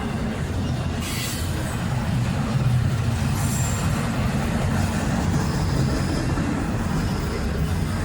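Intermodal freight train's cars rolling past a grade crossing: a steady low rumble of steel wheels on rail, with a few faint, brief high wheel squeals.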